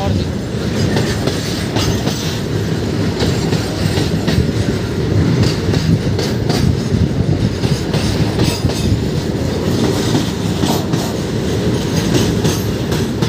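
Freight train's box wagons rolling past close by: a steady, loud rumble of wheels on rail, with scattered wheel clicks over the rail joints.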